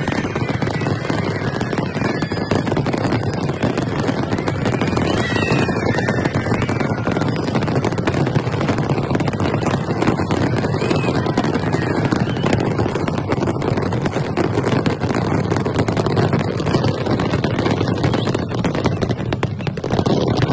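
Massed aerial fireworks going off in a dense, unbroken barrage of rapid bangs and crackles that merge into one continuous rumble.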